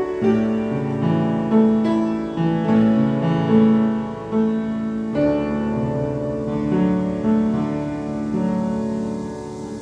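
Piano playing slow, sustained notes and chords, each held for about half a second or more.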